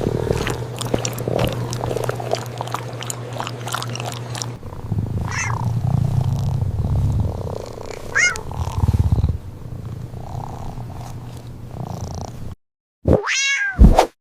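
Cat purring, a low steady rumble that turns to uneven pulses, with two brief high squeaks. After a short gap, one cat meow near the end.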